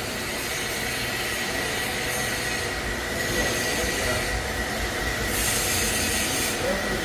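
Machine tool cutting metal while machining a shaft bearing: a steady grinding noise with a thin high tone held throughout. The hiss grows brighter a little after five seconds in.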